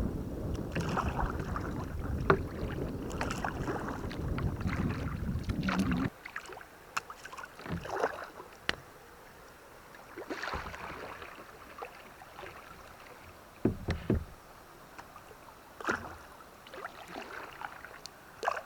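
Kayak paddle strokes: blades dipping and splashing with drips, one short splash every second or two. A low rumble under them for the first six seconds stops suddenly.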